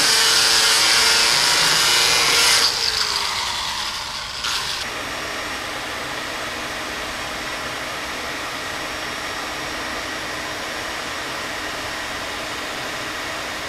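A metalworking tool running with a loud, harsh hiss, shutting off about three seconds in with a falling whine as it dies away. A brief clatter follows, then a steady low hum.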